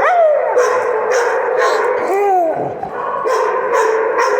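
Big dogs barking over and over, about two barks a second. A long call slides down in pitch at the start, and another rises and falls about two seconds in.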